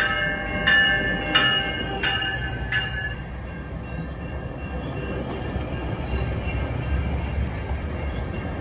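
GO Transit bilevel commuter train passing over a level crossing: a bell clangs about every 0.7 s until about three seconds in, over the steady rumble of the double-deck coaches' wheels on the rails, with a faint high wheel squeal in the second half.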